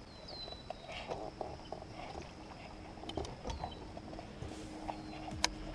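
Quiet outdoor ambience on a lake: a bird repeats a short, high call that slides down in pitch, about every three seconds. A faint steady hum comes in about a second in, and there is one sharp knock near the end.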